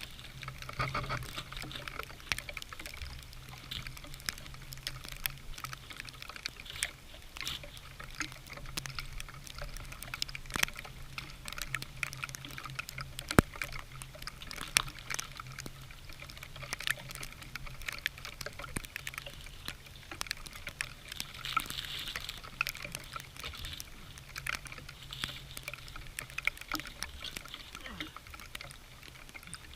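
Birch bark being peeled and torn off a dead birch tree: irregular crackling and tearing with many small snaps, over a steady low hum.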